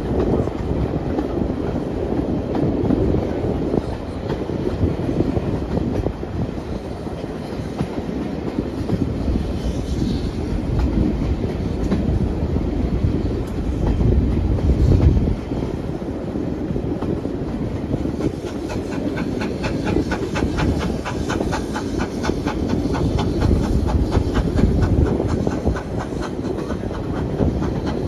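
Steam-hauled heritage passenger train running along the line, its wheels rumbling and clicking over the rails, heard from a carriage window. About two-thirds of the way in, a quick, even rhythm of beats comes in over the rumble.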